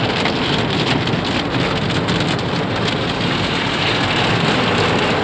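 Water spray of an automatic car wash drumming on the car's roof and windows, heard from inside the cabin: a loud, dense, steady spatter like heavy rain.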